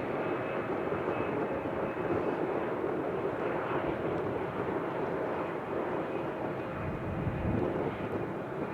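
Jet airliner engines running: a steady rush of engine noise with a faint steady whine.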